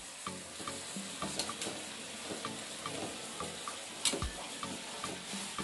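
Vegetables (moringa pods, squash and sweet potato) sizzling in an aluminium wok while a metal ladle stirs them, with a sharp clink about four seconds in.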